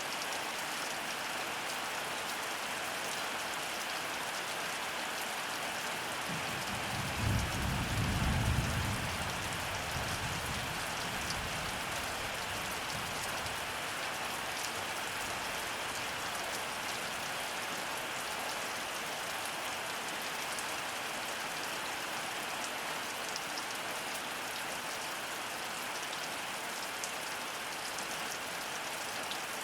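Heavy rain falling steadily. About seven seconds in, a low rumble of thunder swells and fades away over several seconds.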